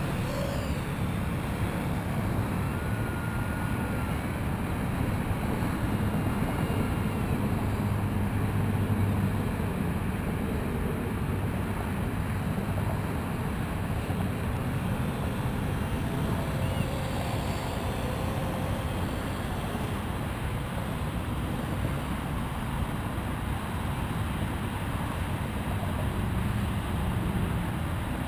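Parrot AR.Drone quadcopter in flight: a steady motor buzz and rush from its four rotors, mixed with wind noise on the microphone.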